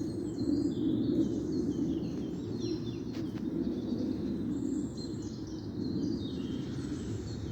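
Several birds chirping and singing outdoors, over a steady low rumble of background noise.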